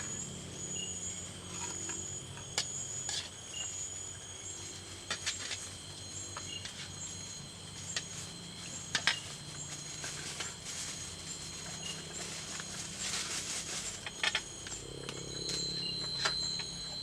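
Forest insects chirping: steady high-pitched trills with a pulsing, even higher chirp over them, and scattered sharp clicks and knocks.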